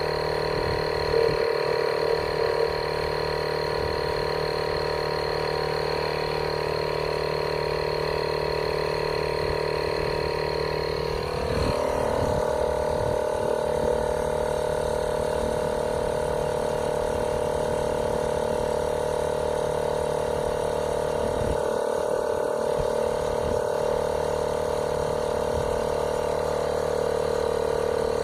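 Cordless portable air compressor running steadily as it pumps up a car tyre, a continuous motor-and-pump drone; its tone shifts slightly about eleven seconds in. It is still filling toward its preset pressure, at which it switches itself off.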